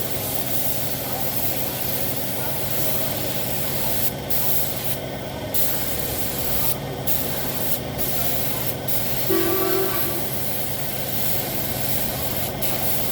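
Paint spray gun hissing in long passes as motorcycle body panels are sprayed, cutting off briefly several times as the trigger is released, over a steady low hum. A brief pitched tone sounds about nine seconds in.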